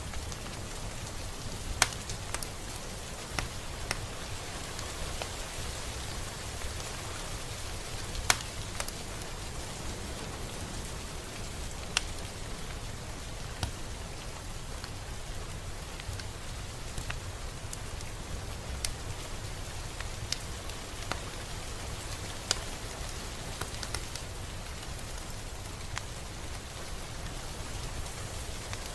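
Steady rain falling, with a single louder drop standing out every few seconds.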